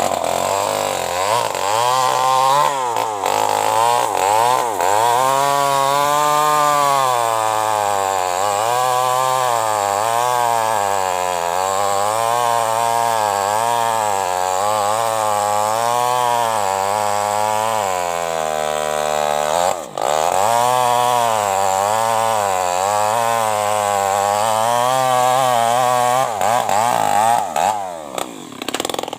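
New West 588 two-stroke chainsaw running at high revs while cutting into a mahogany tree. Its pitch rises and falls every second or two as the chain loads in the cut. The engine bogs down about two-thirds of the way through, dips sharply, picks back up, then winds down near the end.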